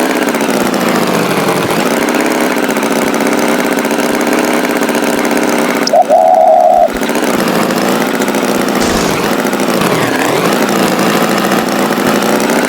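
Tractor engine running, its pitch wavering and dipping up and down, with a short steady tone lasting just under a second about six seconds in.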